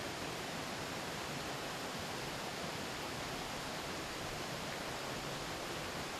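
Mountain river flowing over rocks: a steady, even rush of running water with no breaks.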